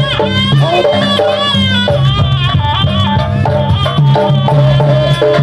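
Jaranan Buto accompaniment music: a loud Javanese gamelan ensemble with hand drums beating a quick rhythm under a high melody line that bends and wavers in pitch.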